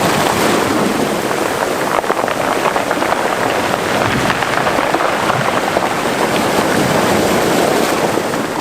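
Mediterranean sea waves washing onto the shore of a cove: a steady fizzing hiss of water full of small crackles, easing slightly near the end.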